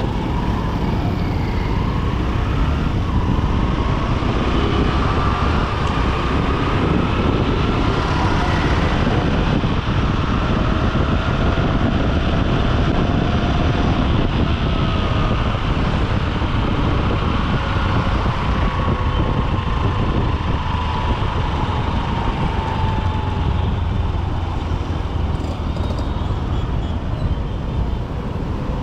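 Honda SP125's single-cylinder four-stroke engine running under way in city traffic, heard through wind rush on a helmet-mounted microphone. Its pitch slowly rises and falls with speed, over steady surrounding traffic noise.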